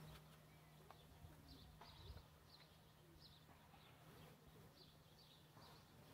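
Near silence, with a string of faint short bird chirps over a low steady hum.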